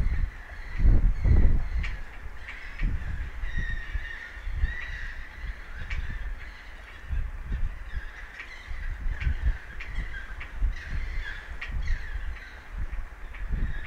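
Wind gusting against the microphone in uneven low rumbles, strongest about a second in, with a wavering high whistle and scattered sharp ticks.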